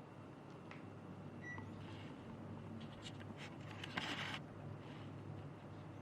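Panasonic Envio CS-S10PKP inverter split air conditioner running with a low steady hum. A short high beep comes about a second and a half in, and a brief hiss about four seconds in.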